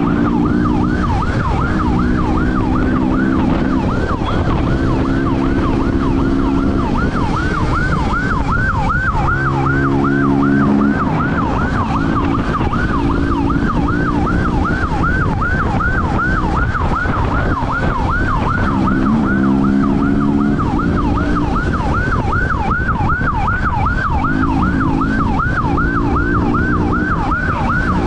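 Police siren sounding continuously in a fast, rapidly repeating up-and-down sweep, about three cycles a second. A vehicle engine runs underneath in steady spells, with road noise throughout.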